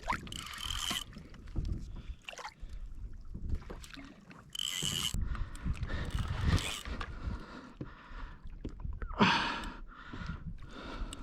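Water sloshing and splashing around a kayak hull, with wind rumbling on the microphone. Two short high whines, each under a second, come near the start and about five seconds in, and a louder splash-like rush comes about nine seconds in.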